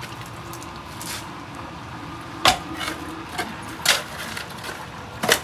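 Three sharp knocks, about a second and a half apart.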